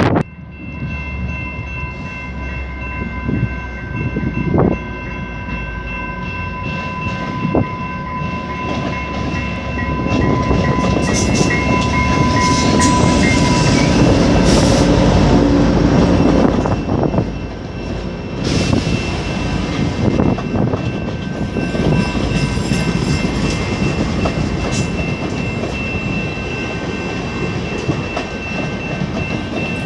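Commuter train running on the tracks, wheels clicking over the rails, with a steady high tone held over the rumble. It grows louder about ten seconds in, then eases off.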